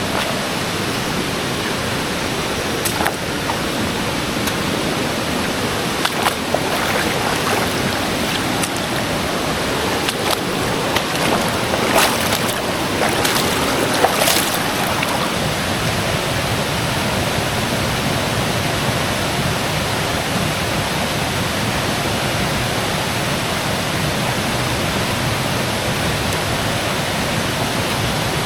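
Clear, shallow river rushing steadily over rocks and small cascades. A few short, sharp sounds cut in briefly during the first half.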